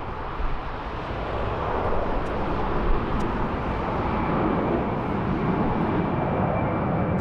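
Jet airliner's engines, their rushing noise growing steadily louder as the aircraft comes closer, with a thin high whine joining near the end.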